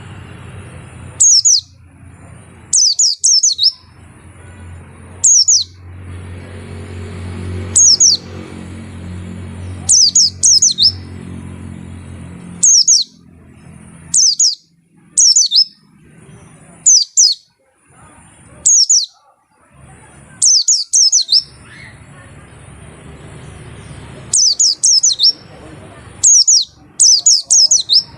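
White-eye (pleci) singing: short, loud bursts of high, quickly falling chirps, some single and some in quick runs of two or three, every second or two.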